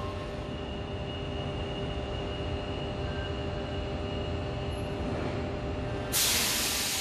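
Tangara double-deck electric train at an underground platform: a steady low rumble and hum with faint steady tones. About six seconds in comes a sudden loud hiss.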